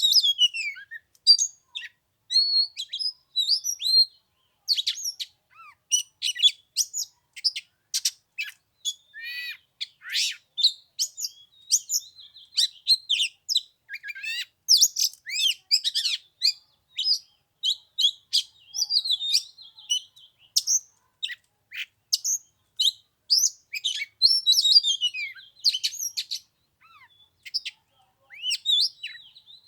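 Oriental magpie-robin singing: a fast, varied run of clear whistles, chirps and rising and falling notes, kept up with hardly a pause.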